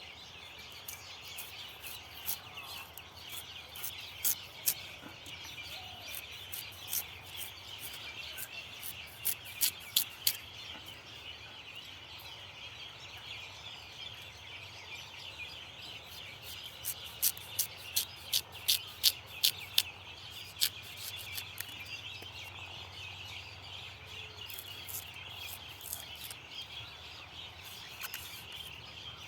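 Birds chirping and calling in a steady outdoor chorus, with runs of sharp clicks or taps, one cluster about ten seconds in and another from about seventeen to twenty-one seconds.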